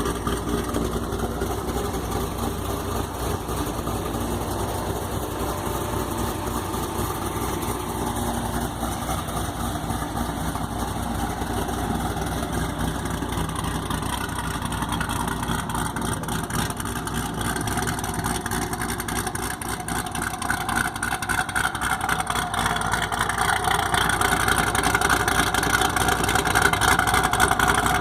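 Modified 2008 Corvette Z06's 7.0-litre LS7 V8 idling through Kooks headers and a Corsa exhaust, a steady idle that gets a little louder near the end.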